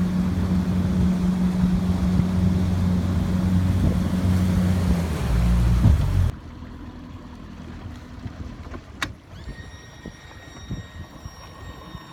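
A motor engine running steadily, loud with a low hum, that cuts off abruptly about six seconds in. A much quieter background follows, with faint high steady tones and one sharp click.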